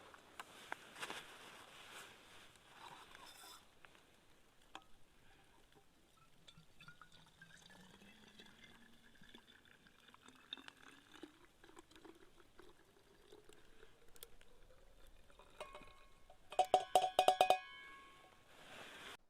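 Hot water being poured into a bottle, the filling tone rising steadily in pitch as the bottle fills. Near the end comes a quick run of ringing metallic clinks.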